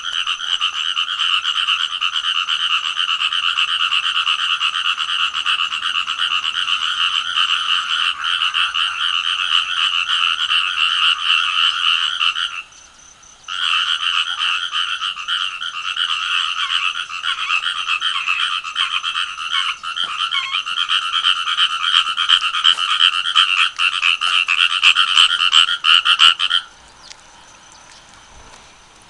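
Frogs calling in a continuous, rapid croaking chorus that breaks off for about a second roughly twelve seconds in, then stops abruptly near the end: the frogs fall silent as someone approaches them.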